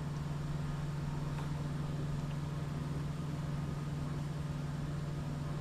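Steady low background hum of running machinery, with a couple of faint light ticks.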